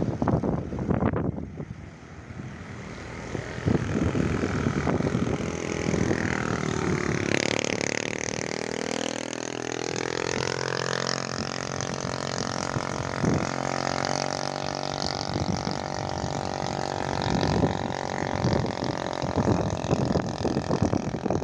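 A small boat's motor running, its pitch dipping about six seconds in and then climbing again over the next few seconds. Gusts of wind buffet the microphone at the start and near the end.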